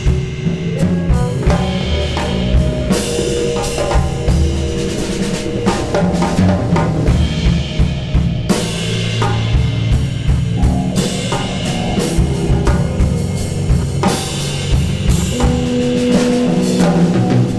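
Free-improvised ensemble music: busy, irregular drum and percussion hits over held low pitched tones that shift every second or two.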